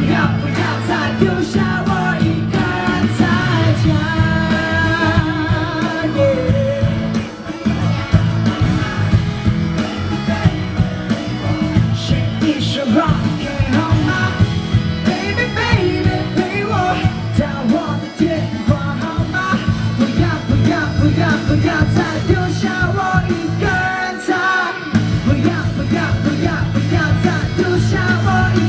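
Live pop-rock band with a singer performing loudly through a concert sound system, with a steady beat and guitar.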